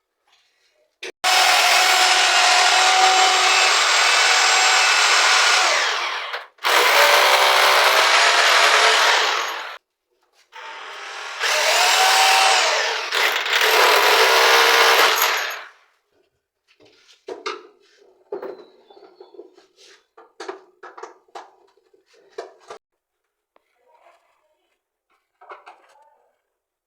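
Electric drill running in three long bursts of about three to five seconds each, its pitch sagging and rising as it bites, followed by a scatter of short knocks and taps.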